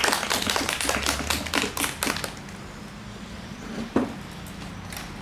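Brief applause from a small audience that dies away after about two seconds, followed by a single knock.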